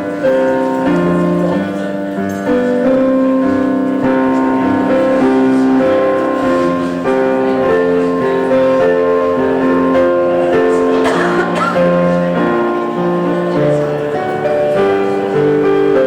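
Slow keyboard music: long held chords that change every second or so, with faint voices underneath.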